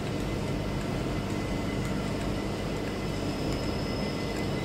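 A train running through, giving a steady rumble with a faint high whine about three and a half seconds in.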